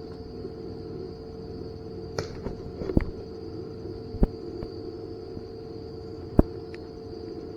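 Four sharp, isolated snaps at irregular spacing, over a steady background hum with a high, even whine.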